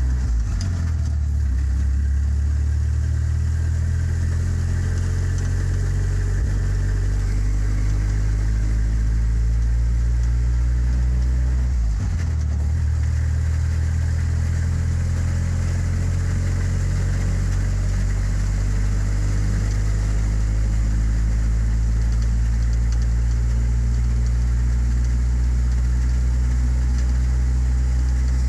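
A 1953 Willys truck engine runs steadily, its note dipping briefly about a second in and again about twelve seconds in. It is running on a new fuel pump and a plastic fuel tank taken from a Chevy Blazer.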